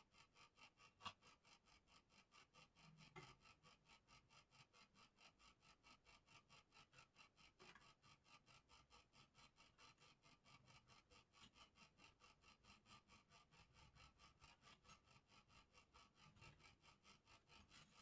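Faint, quick back-and-forth rubbing, about four strokes a second: sanding to smooth a handmade bird cage. A light tick about a second in.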